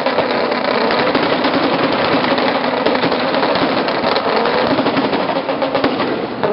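Lexus SC300's 2JZ straight-six revved hard through a very loud exhaust, a rapid stream of exhaust pulses with the pitch rising and falling.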